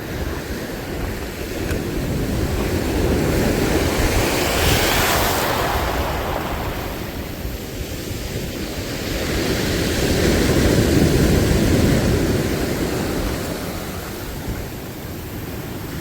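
Sea waves washing in, swelling twice: about four seconds in and again about ten seconds in. Wind rumbles on the microphone throughout.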